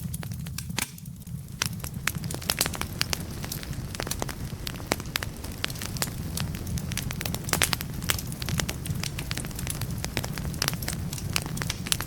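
Wood fire burning in a fireplace, crackling with frequent sharp pops of burning logs over a steady low rumble, easing off briefly about a second in.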